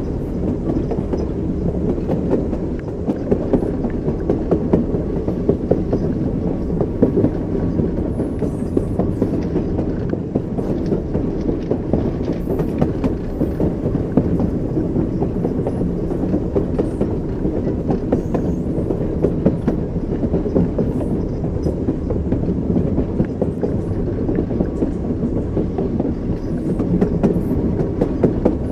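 Steady rumble of train wheels running over rail joints, a continuous clickety-clack with light rattling, as heard riding in a moving railway carriage.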